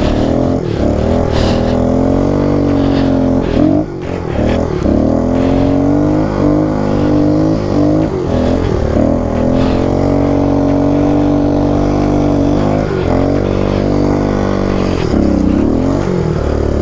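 Kawasaki KLX110 pit bike's small single-cylinder four-stroke engine revving hard while ridden. The pitch mostly holds high, dropping and climbing back a few times as the throttle is eased and reopened, around four seconds in and twice near the end.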